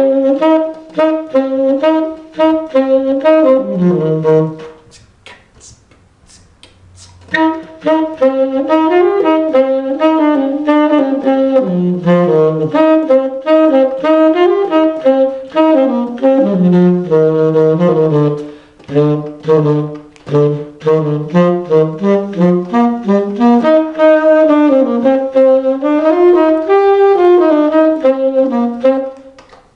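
Solo instrumental music: a single melody instrument playing a quick run of notes. It breaks off about four seconds in and starts again about three seconds later.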